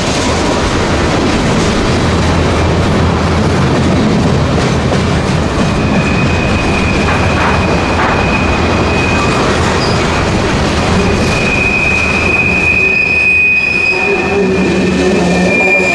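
Freight train rolling past with a steady, loud rumble and rattle of wheels and cars. High, steady wheel squeal comes in about six seconds in and again through the second half.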